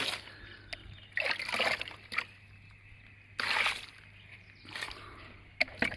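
Water splashing and trickling in several short bursts, from washing muddy toy vehicles.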